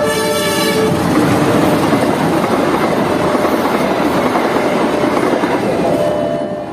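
A train's horn sounding a chord that stops about a second in, followed by the loud rush of a train passing at speed, wheels and wind, with the horn coming back in just before the end.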